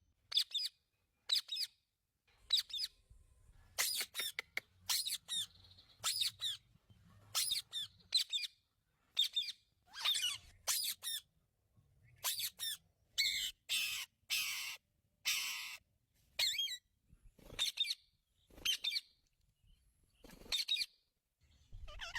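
Indian ringneck parakeet giving a long run of short, sharp calls, about one a second, with a few harsher screeches midway.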